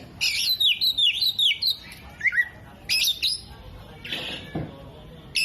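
Oriental magpie-robin singing: a fast run of downward-sliding whistled notes, then sharp, clipped chirps. A brief hiss and a low thud come about four seconds in.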